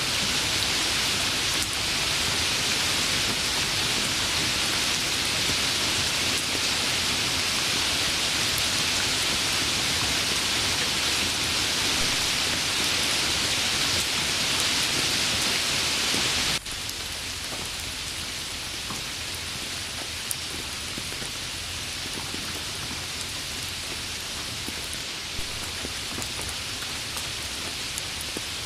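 Heavy rain falling in a steady, dense hiss, which about two-thirds of the way through cuts abruptly to lighter rain with a few separate drops ticking.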